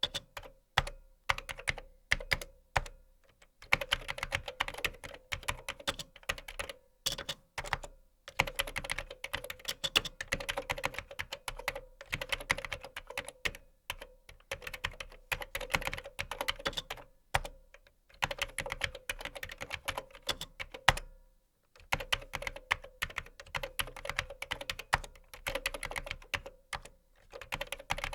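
Typing on a computer keyboard: quick runs of key clicks lasting a few seconds each, broken by short pauses, with a longer gap a little past two-thirds of the way through.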